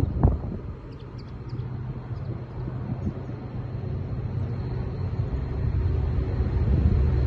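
A distant diesel train approaching unseen, its low engine rumble and hum building steadily louder. A gust of wind hits the microphone at the start, and a few faint bird chirps come about a second in.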